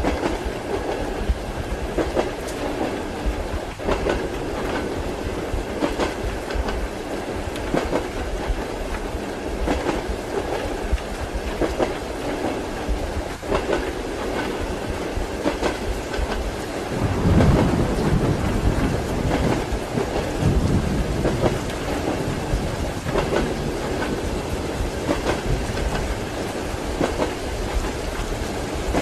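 Train wheels clacking over rail joints in a steady rhythm, under a constant hiss of rain. About two-thirds of the way through, a roll of thunder rumbles and fades over a few seconds.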